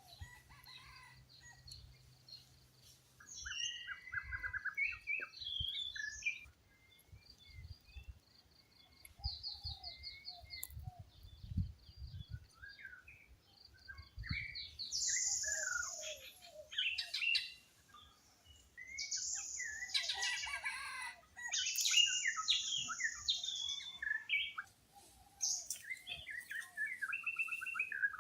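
Several kinds of wild birds chirping, trilling and whistling over one another in forest. The calls are loudest and harshest through the second half.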